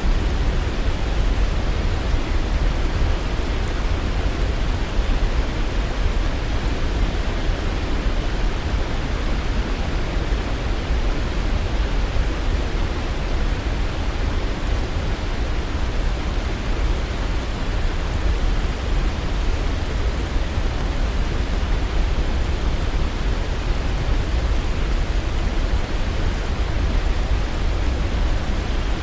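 Waterfall: a steady, even rush of falling water, heaviest in the low range, with no change or break.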